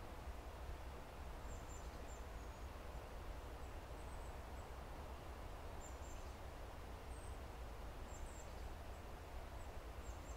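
Quiet woodland ambience: a steady low rumble with short, thin, very high bird calls scattered through it, about every second or two.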